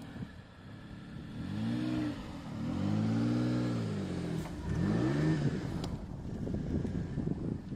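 Isuzu VehiCROSS V6 engine revved three times, the pitch rising and falling each time with the middle rev the longest, then dropping back to idle. The odd exhaust note comes from a cracked front exhaust downpipe.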